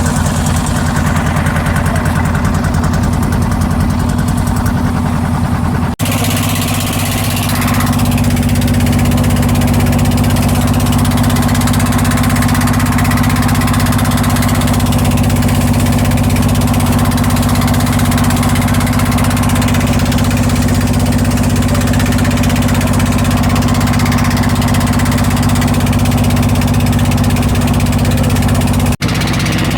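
A boat engine running steadily at a constant speed, with a loud low drone. There is a brief break about six seconds in, and after it the drone comes back a little stronger.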